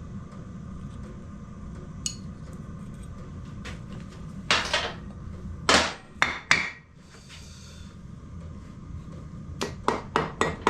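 Hammer blows on a motorcycle engine's cylinder barrel to break it free of the crankcase: a few separate knocks, then a quick run of about five strikes near the end.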